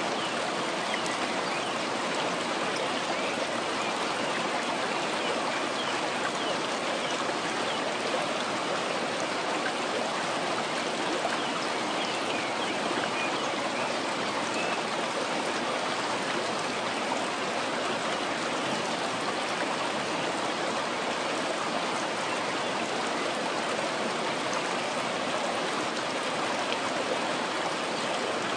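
Running water flowing steadily, an even rushing and trickling that does not change.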